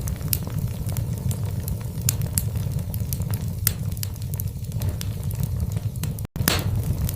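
Wood fire burning in a fireplace: a steady low rumble of the flames with scattered sharp crackles and pops from the logs. The sound drops out completely for an instant about six seconds in.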